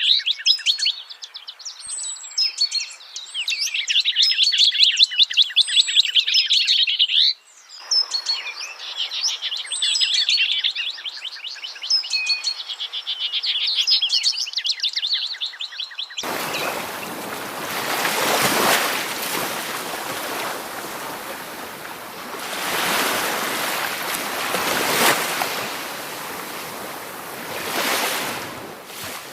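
Small songbirds chirping in quick, dense trills, with a short break partway through. About halfway in this cuts abruptly to the steady rush of water, which swells and eases every few seconds.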